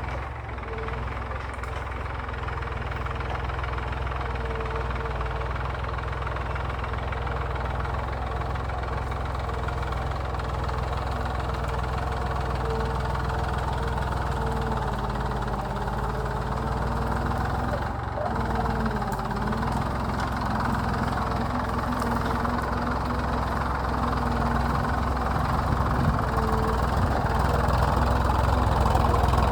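Massey Ferguson tractor engine running steadily while pulling a plough, slowly growing louder toward the end.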